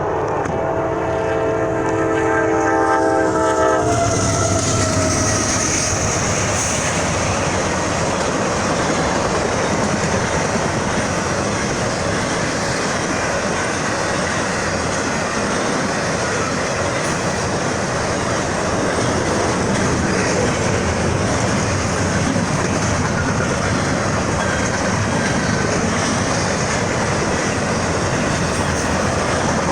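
A freight locomotive's air horn sounds a chord for about four seconds and cuts off sharply. Then a double-stack freight train rolls past, its wheels clattering steadily on the rails.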